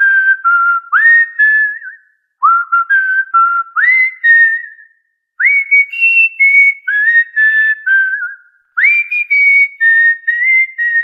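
Cockatiel whistling a short tune in four repeated phrases. Each phrase is a run of clear notes, and each note begins with a quick upward slide.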